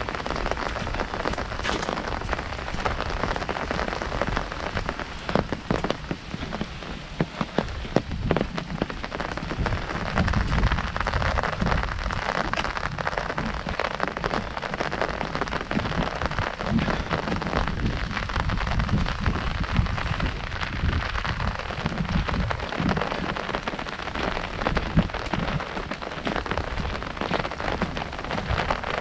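Heavy rain falling on an umbrella: a dense, steady patter of drops with many sharper single strikes, over a low, irregular rumbling.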